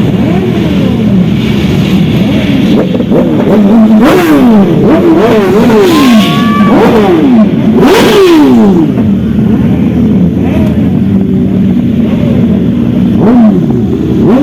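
Superbike engines being revved in repeated throttle blips, each rev jumping up in pitch and falling back, over a steady idling hum. The revs come thick and fast for most of the first nine seconds, then ease off to the idle, with one more blip near the end.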